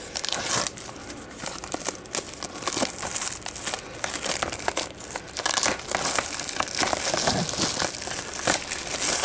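Plastic shrink-wrap being peeled off a Blu-ray case and crumpled in the hands: a dense run of crinkling with many small crackles.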